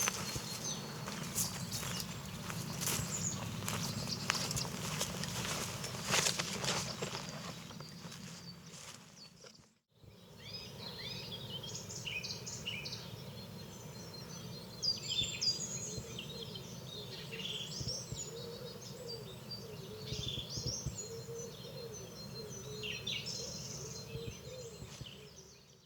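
Rapid sharp clicks and rustling that fade out over about ten seconds, then, after a moment's silence, small birds chirping and singing in short repeated phrases.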